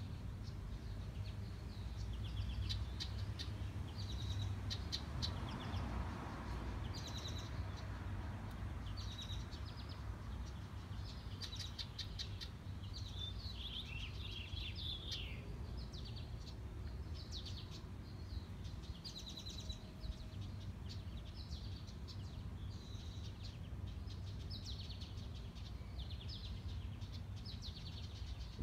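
House wren calling and singing in repeated bursts of rapid, high chirping trills, a new burst every second or two, over a low steady rumble. These are the mother's calls to coax her fledgling chicks out of the nest box.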